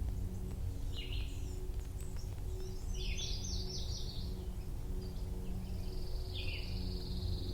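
Songbirds singing: a short call about a second in, a quick run of falling notes around three seconds in, and a long high trill near the end. Beneath them runs a steady low rush, typical of creek water.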